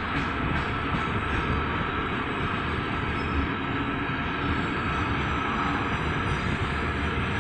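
Loaded freight wagons of a heavy train rolling slowly past on an upgrade: a steady rumble of wheels and cars with a faint high steady whine.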